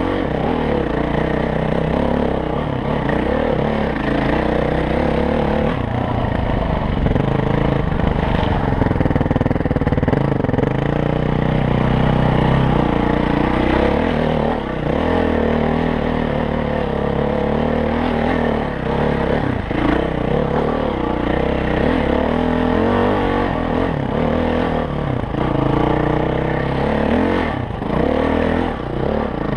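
Dirt bike engine revving up and down as the bike is ridden over rough, rocky trail, with a few brief knocks and clatters.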